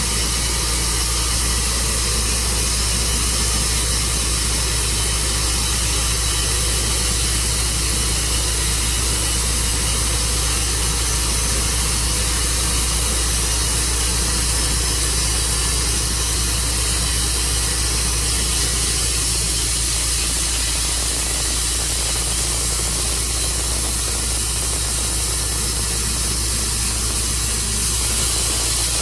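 Sawmill engine running steadily at a constant speed, with a loud, even noise.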